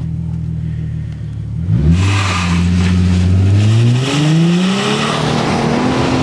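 2005 Ford Mustang's 4.0-litre V6 with a new aftermarket exhaust idling, then pulling away hard about two seconds in. The exhaust note climbs, drops at a gear change about four seconds in, and climbs again.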